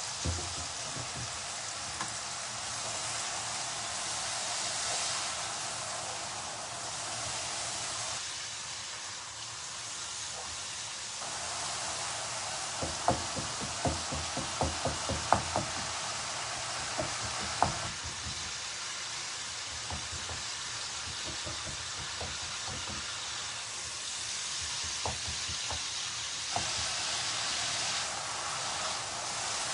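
Tomato-and-spice masala sizzling steadily in a pan as it is cooked down with a splash of water. A spatula knocks against the pan in a quick run of strokes about halfway through, and a few more near the end.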